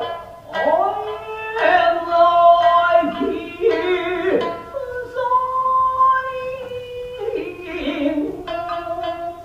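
Traditional Japanese dance accompaniment: a singer holding long, wavering notes that slide between pitches, with a few shamisen plucks near the end.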